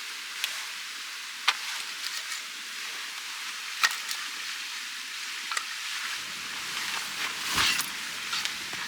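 Wood fire burning with a steady hiss and sharp, irregular crackling pops, a few seconds apart, with a denser burst of crackle near the end.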